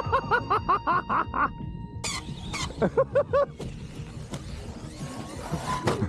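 A person laughing in quick rhythmic ha-ha bursts, two runs of laughter with a pause between, over the tail of fading background music.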